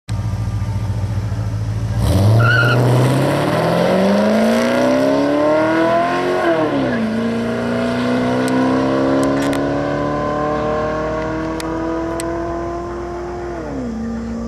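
Holden Commodore SS V8 idling at the start line, then launching hard about two seconds in with a brief high squeal and accelerating flat out down the drag strip. The engine pitch climbs, drops at a gear change about six and a half seconds in, climbs again through the next gear and drops near the end, fading as the car pulls away.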